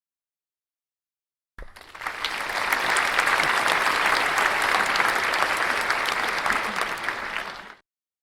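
Audience applause sound effect: many hands clapping, starting about a second and a half in, holding steady for about six seconds and then cutting off abruptly.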